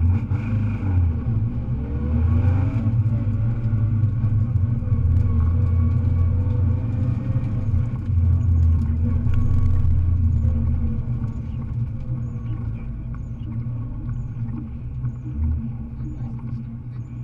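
Rally car's engine heard from inside the cabin, pulling steadily with a few changes in revs, then easing off about eleven seconds in as the car slows.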